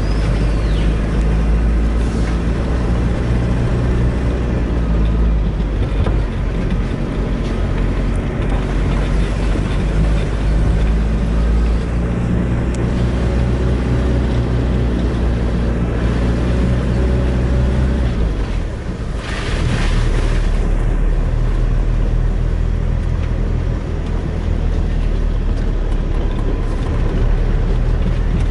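Vehicle engine running steadily on a dirt road, heard from inside the cab. The engine note and loudness dip briefly about two-thirds of the way through, then pick up again.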